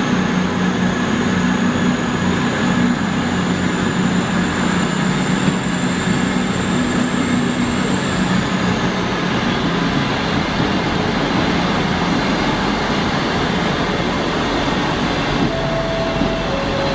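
A train running close by: a loud, steady rumble with a low hum that fades after about eight seconds, and a thin high whine that rises a little and then drops away about eight seconds in.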